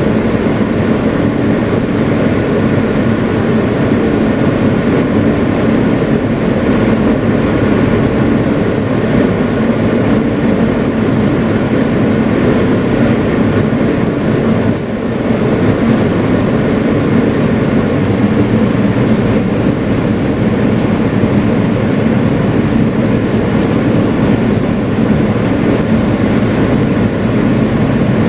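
Kawasaki R160B subway car with Siemens AC propulsion running at speed, heard from inside the car: a steady rumble of wheels on rail with an even motor hum. The level dips briefly about halfway through.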